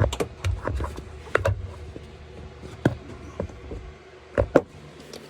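Scattered sharp knocks and clicks with handling rustle and a low rumble, from a camera being moved and set down close by; the loudest knocks fall about a second and a half in, about three seconds in, and a quick pair near the end.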